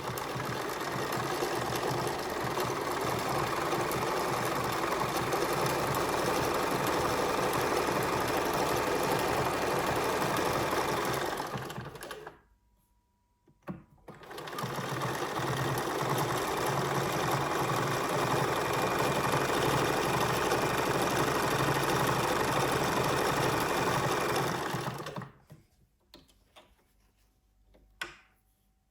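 Bernina 1230 sewing machine running steadily at speed, stopping after about twelve seconds and starting again for about eleven more before stopping, with a click between the runs and a few faint clicks near the end.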